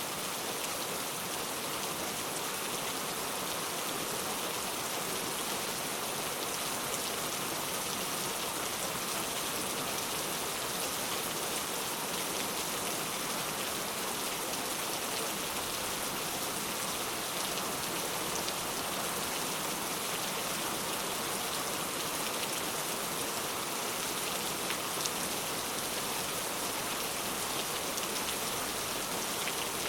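Steady rain falling, a dense even hiss with many fine drop patters on a surface.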